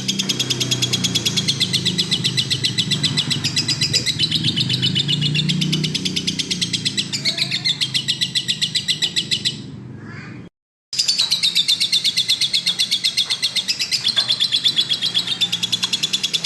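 Lovebird singing a long, fast, unbroken run of high chirps, many a second: the continuous chatter that bird keepers prize in a 'gacor' lovebird. The run fades about nine and a half seconds in, cuts out briefly, then starts again at full strength.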